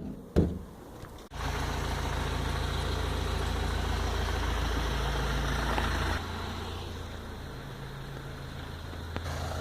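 Car engine running steadily, a low even hum that starts about a second in and gets quieter about six seconds in.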